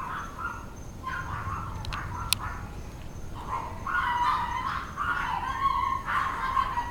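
Drawn-out animal calls in several stretches, a short one about a second in and longer ones in the second half.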